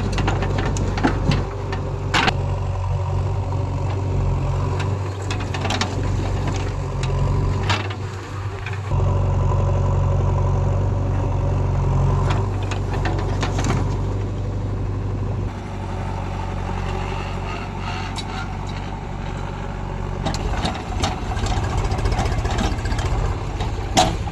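Heavy diesel engine running steadily, its speed shifting a few times, with scattered sharp knocks over it.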